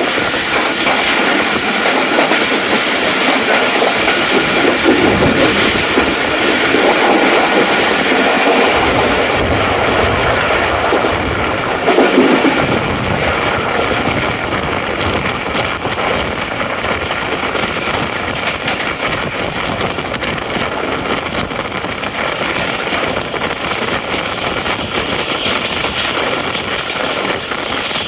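Tezgam Express passenger train running along the track, a steady rolling rumble with a brief louder swell about twelve seconds in.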